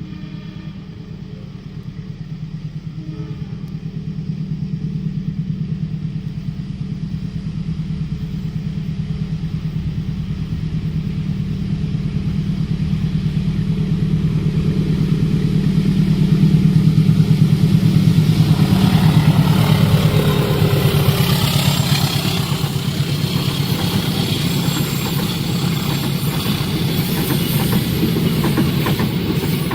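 Diesel locomotive engine running with a low, pulsing hum as the train approaches, growing louder. From about two-thirds through, the rushing clatter of wheels on the rails joins it as the train passes.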